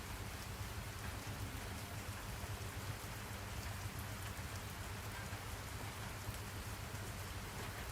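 Steady rain falling, an even hiss with small drop ticks scattered through it and a low steady rumble underneath.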